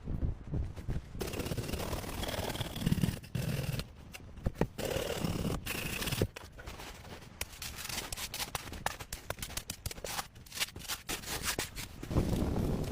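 Rubbing and rustling with many sharp clicks and cracks scattered through it.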